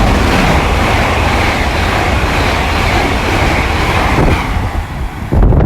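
GWR Class 800 IET passing through the station at speed, a loud steady rush of wheel and air noise that eases off near the end as the train clears.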